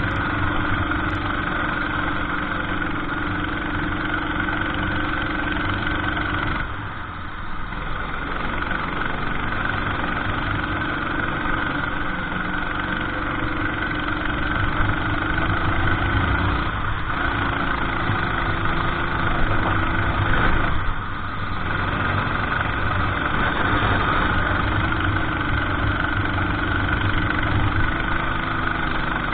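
Kart engine running under racing load, its note wavering up and down. It drops briefly twice, about seven seconds in and again near twenty-one seconds.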